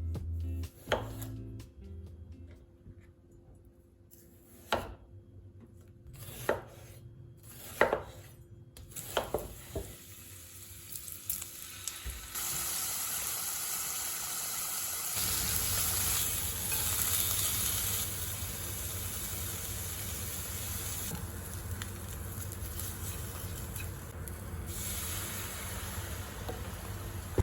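A few scattered clinks and knocks of kitchen utensils, then, from about halfway through, food sizzling steadily in a frying pan.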